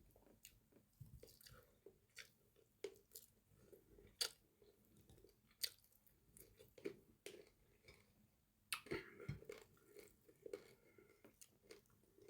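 A person chewing food close to the microphone: faint, irregular mouth clicks and smacks, a little busier about nine seconds in.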